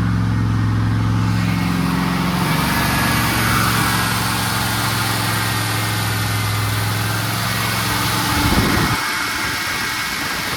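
Turbocharged Pontiac Trans Am engine running steadily at raised revs during flat-tappet camshaft break-in. About two seconds in the sound shifts toward more hiss, and a brief louder surge comes near the end.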